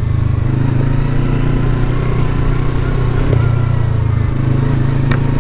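Yamaha R3 motorcycle's parallel-twin engine running steadily at low revs, as when idling at a standstill.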